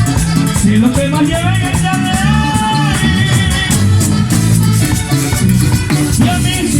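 Live vallenato band playing an instrumental passage: an accordion melody over a steady bass line, with a rattling scraped percussion beat.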